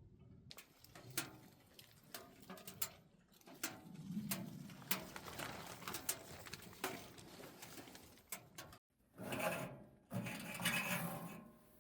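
Wood fire crackling in a double-combustion camping wood stove: irregular sharp pops and snaps, followed near the end by two louder, longer noisy surges.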